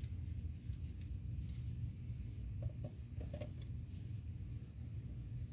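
Steady high-pitched insect drone, like crickets, over a low background rumble, with a few faint light clicks and taps of handling.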